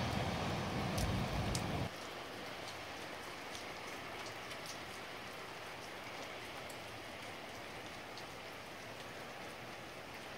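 Steady rain falling, with scattered drops ticking sharply on a nearby surface. A low rumble drops away suddenly about two seconds in.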